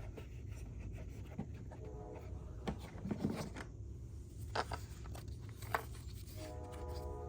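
Rubbing and scraping of a generator air filter and its plastic cover being handled, with a few light clicks. Steady tones, likely background music, come in near the end.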